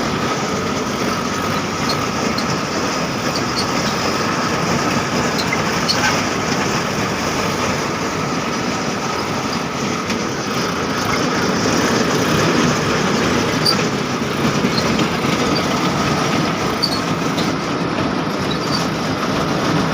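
Tractor engine running steadily as it works digging soil, a dense unbroken mechanical din with faint scattered ticks.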